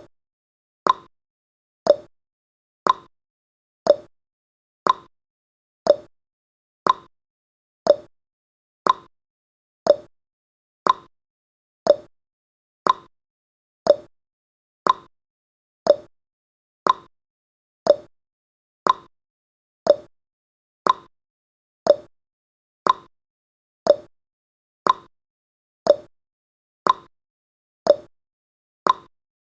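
Countdown timer's tick sound effect: one short, sharp tick every second, evenly spaced.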